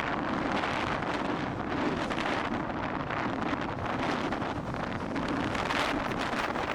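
Strong wind buffeting the microphone over a steady, dense rushing noise, with fine crackle-like flickers throughout.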